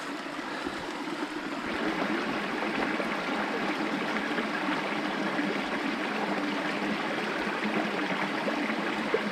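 Small mountain stream running steadily, a continuous rush and trickle of water over rocks, a little louder after about two seconds.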